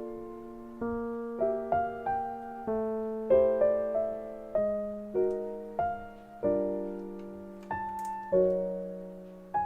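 Background piano music: a slow, gentle melody of single struck notes over held low chords, each note fading after it is played.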